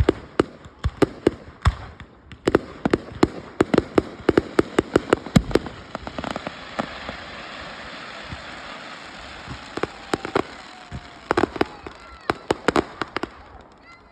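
Professional display fireworks going off in rapid, irregular volleys of sharp bangs. Partway through, the bangs thin out into a few seconds of steady hissing, and then another volley of bangs follows.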